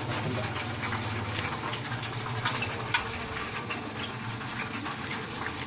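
Vacuum fryer machine running with a steady motor hum, with scattered sharp ticks and crackles over it. The two loudest ticks come about two and a half and three seconds in.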